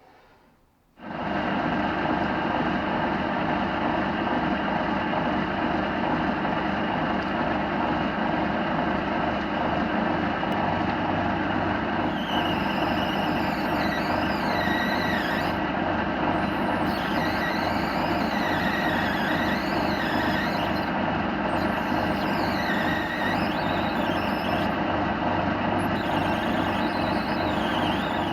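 Metal lathe starting about a second in and then running steadily while a centre drill is fed into brass stock; from about the middle on, a faint wavering squeal comes and goes over the machine noise.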